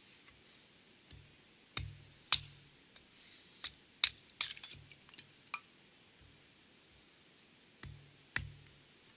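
Burning firewood crackling: irregular sharp snaps and pops, the loudest a little past two seconds in and around four seconds, with a soft hiss between some of them.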